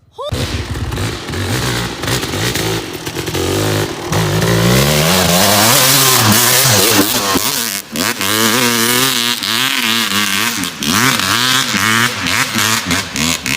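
Dirt bike engine revved hard under throttle, its pitch climbing and falling again and again as the rider works the throttle, with brief drops in loudness between pulls.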